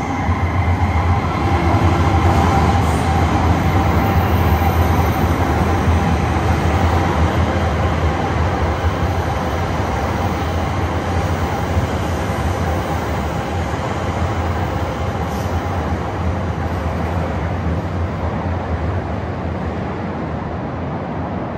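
Shinkansen bullet train running through an underground station: a loud, steady rumble of wheels and running gear with a faint whine over it, easing slowly after the first few seconds.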